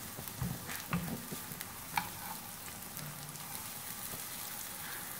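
Minced-meat kababs shallow-frying in oil on a flat tawa, with a steady sizzle. A few sharp scrapes and taps of the spatula on the tawa, about half a second, one second and two seconds in, as the kababs are turned over.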